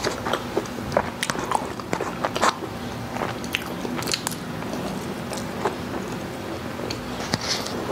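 Close-miked chewing and wet mouth clicks as a spoonful of goto (rice porridge) is eaten, heard as a string of short, sharp clicks.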